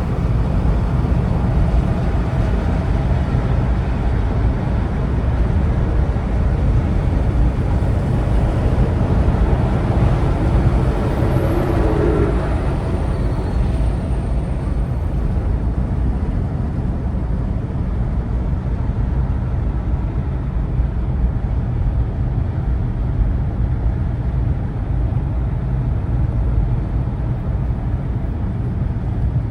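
Vehicle driving in traffic: a steady, loud low engine and road rumble, with a brief higher tone about eleven seconds in.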